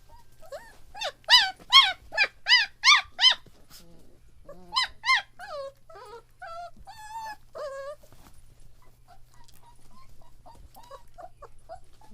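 Three-week-old German Shepherd puppy crying: a quick run of six loud, high-pitched yelps, then two more, trailing off into softer whimpers and faint squeaks.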